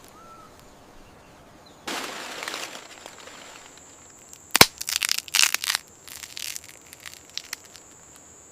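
Cocoa pods being cracked open: a short scraping rustle, then a sharp crack about halfway through followed by a quick run of crunching cracks that tail off into a few small clicks.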